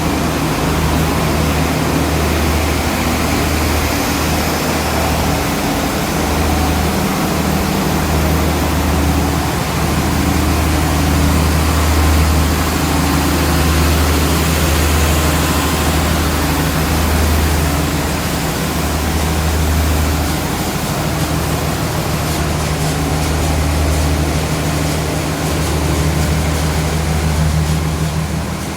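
Diesel engine of the intercity train's power car, an MTU 12V 4000, idling with a steady deep hum that swells and eases every few seconds.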